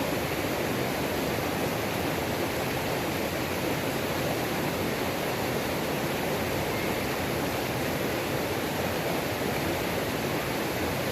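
Mountain creek waterfall: water pouring and splashing over rocks in a steady, unbroken rush.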